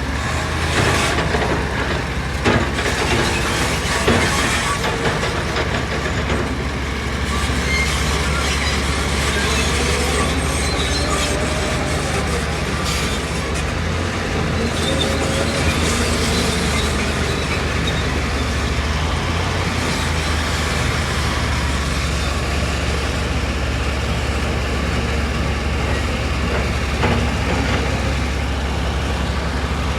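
Diesel engine of tracked heavy earthmoving machinery running steadily under load, with metallic clanks and knocks from the tracks and rock handling, sharpest in the first few seconds.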